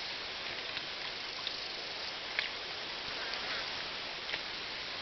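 Steady outdoor ambient hiss with a few brief faint chirps, the sharpest about two and a half seconds in.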